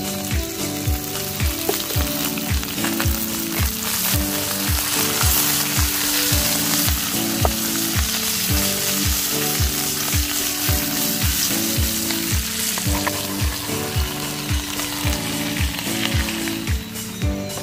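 Food frying in hot oil, a steady sizzle, under music with a steady kick-drum beat of about two beats a second.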